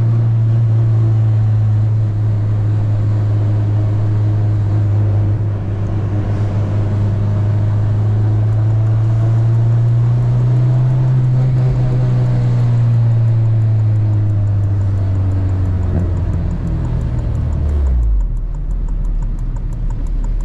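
Car engine running steadily, as if cruising. Its note rises a little midway, then drops away near the end as the revs fall.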